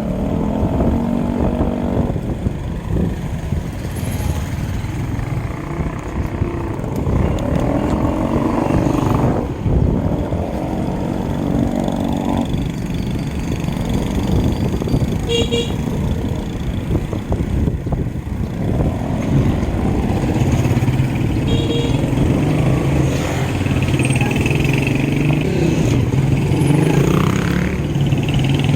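Motor vehicle engine running on the road amid steady road and wind noise, its pitch rising and falling a few times in the first half, then holding a steady low hum.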